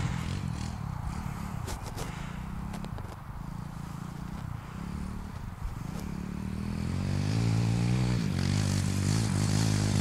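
Pit bike engine running, with light clattering and scraping over it; the engine grows louder and steadier from about two-thirds of the way through.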